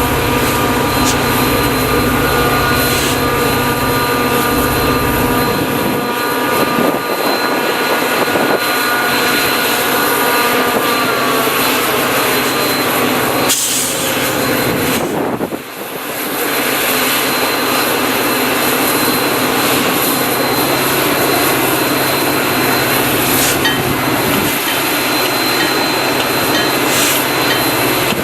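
Metra F40PH diesel locomotive throttling up as it pulls out: its turbocharged prime mover runs loud and steady with a jet-like turbocharger whine. The deep rumble fades after about five seconds, and several steady tones slide down in pitch about a third of the way through as the locomotive passes.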